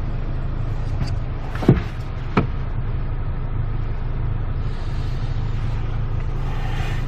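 Car interior noise while driving: a steady low rumble, with two or three brief knocks about two seconds in.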